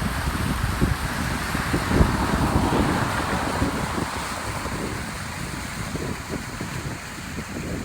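Storm runoff rushing down a desert riverbed as a steady, even rush, with wind buffeting the microphone in irregular low gusts. The rush eases slightly in the second half.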